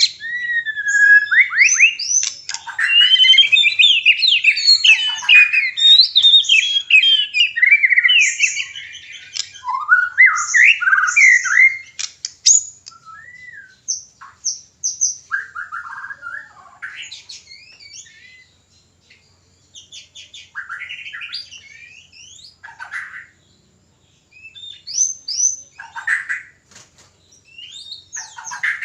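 White-rumped shamas (murai batu) singing and calling in courtship: rich, varied whistles, trills and sharp notes, dense and loud for the first dozen seconds, then coming in sparser phrases with short pauses.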